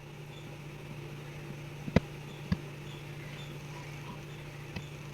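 Cooking oil heating in a kadai on the stove: a steady low hum and faint hiss, with a few sharp ticks from the pan, two about halfway through and more near the end.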